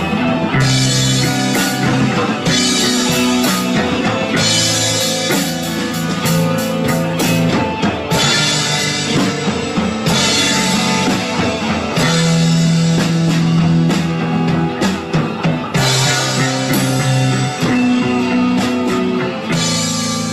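Rock music: guitar and drum kit playing steadily over sustained bass notes.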